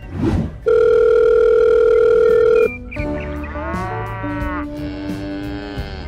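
Cartoon sound effects: a quick whoosh, then a loud steady electronic beep held for about two seconds, followed by a long, wavering, low comic call over a lower held tone.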